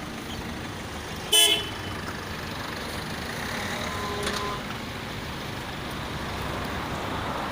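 Steady road traffic noise with a short, loud vehicle horn toot about a second and a half in, and a fainter horn toot around four seconds.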